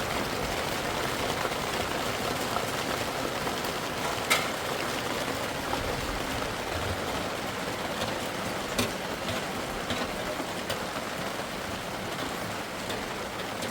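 Steady heavy rain falling, with a few sharp taps about four and nine seconds in.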